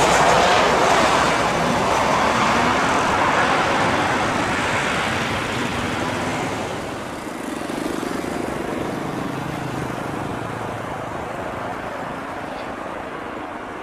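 Jet engine noise of a landing Boeing 737-800 with CFM56 turbofans, a broad roar that fades steadily as the aircraft moves away down the runway.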